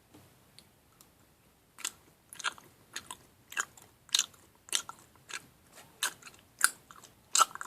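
Someone chewing close to the microphone: about ten short, sharp chewing sounds at a steady pace of a little under two a second, starting about two seconds in.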